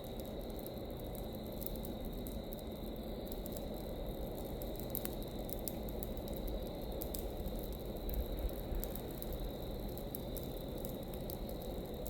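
Burning pile of dry leaves crackling and popping steadily over a low rumble, with a few louder pops about eight seconds in. A steady high tone runs underneath.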